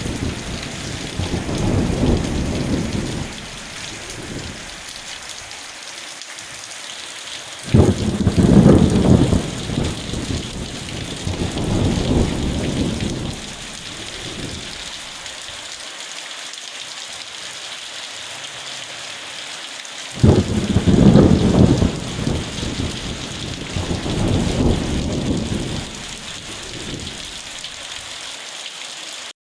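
Steady rain falling, with rolling thunder. One rumble fades out at the start, then two more break in sharply about 8 and 20 seconds in and roll on in waves for several seconds each.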